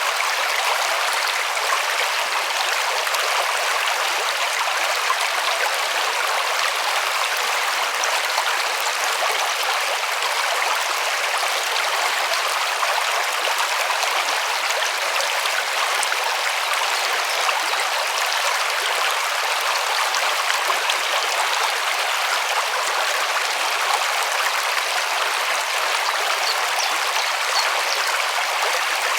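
River water rushing and splashing over stones in a steady, even stream.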